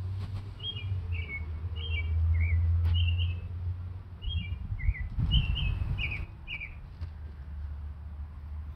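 A small songbird chirping: a string of short, quick chirps repeated over several seconds, stopping near the end, over a low rumble.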